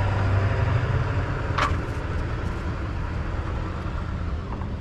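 A vehicle engine idling steadily with a low hum, and a single short click about one and a half seconds in.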